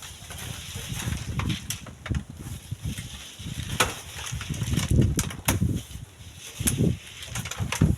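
Strong gusty wind buffeting the microphone in uneven low rumbling surges, with scattered sharp clicks and ticks.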